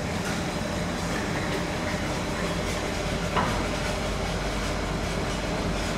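Steady hum and background noise of a TGV Duplex train standing at a station platform, with a single short click about three and a half seconds in.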